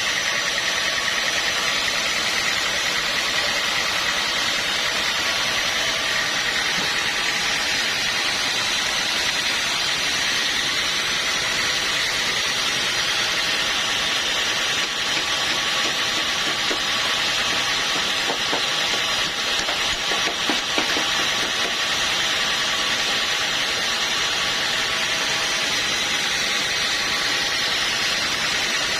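Sawmill machinery running steadily: a constant mechanical drone with a hiss and a steady hum, loud and unchanging throughout.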